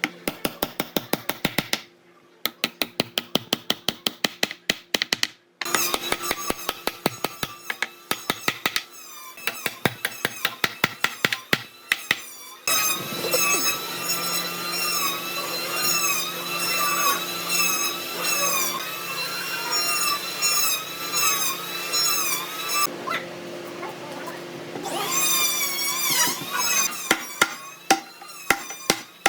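Rapid, regular tool strikes on wood, about four or five a second, then a power tool running for about ten seconds with a wavering high whine, a shorter burst of it a little later, and the strikes again near the end.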